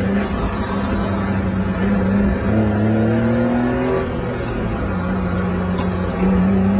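Honda Beat's three-cylinder engine heard from inside the cabin, with road noise underneath. The revs climb, drop about four seconds in, then rise again, louder, near the end.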